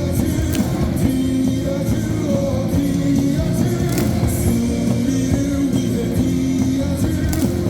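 Loud amplified cheer music with a large stadium crowd singing along in unison, a held melody that steps from note to note, with scattered claps or thumps in the crowd.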